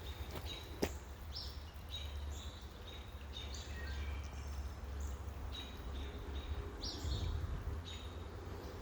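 Outdoor woodland ambience: birds chirping in short high notes over a steady low rumble, with a couple of sharp snaps about a second in.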